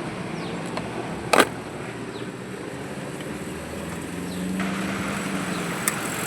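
Car engine idling steadily, with one sharp click about a second and a half in and a low hum that joins about four seconds in.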